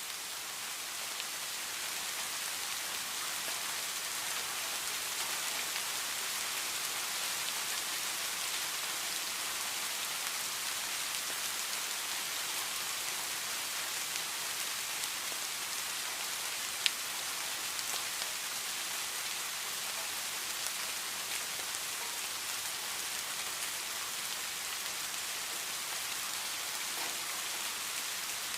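Heavy rain falling steadily, a dense even hiss of drops on surfaces. One sharp tick stands out about 17 seconds in.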